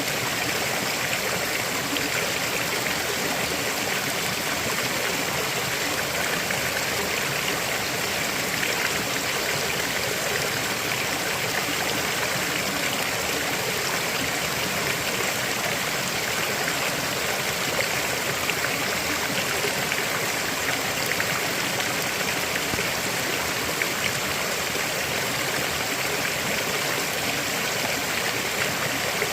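River water flowing steadily over rocks, a constant rushing with fine splashing and trickling.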